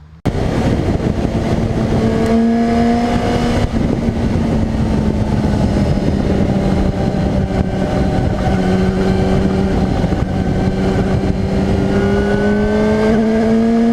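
Motorcycle riding at steady cruising speed, heard on board: a constant engine note over a loud rushing of wind, starting abruptly just after the beginning. The engine pitch sags a little through the middle and climbs again near the end.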